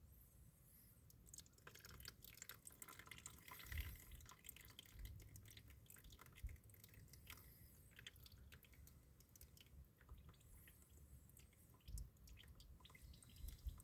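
Faint irregular dripping and spattering of water-contaminated, clumpy engine oil draining out of a Massey Ferguson 35 diesel's crankcase into a container, with a few low thumps.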